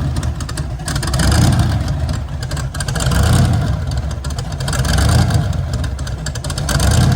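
Supercharged Hemi V8 engine in a 1955 Chevy pickup running with a choppy, pulsing beat, its level swelling and easing about every two seconds.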